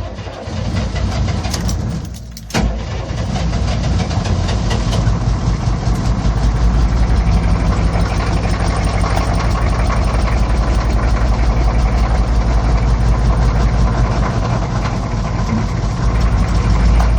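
M1009 CUCV's 6.2-litre diesel V8 being cranked on the starter, stopping briefly about two seconds in, then catching and running loud and steady. This is a cold start at about 3 °F without the block heater plugged in.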